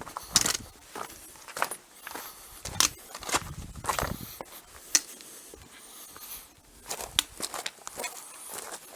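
A hiker's footsteps on the stony floor of a dry wadi: uneven steps and scrapes over rock and gravel, with a short pause near the end.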